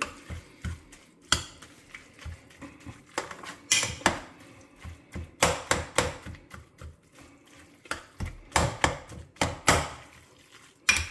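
Metal spoon stirring a thick, wet filling in an enamel pot, scraping and clinking against the pot's sides and bottom in irregular strokes.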